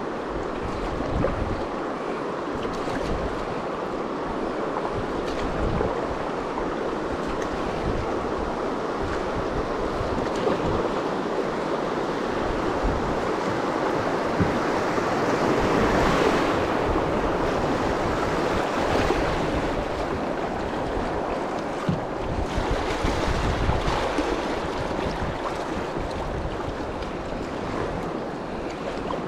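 Steady rush of moving river water with wind buffeting the microphone in irregular low gusts; the rush swells louder about halfway through.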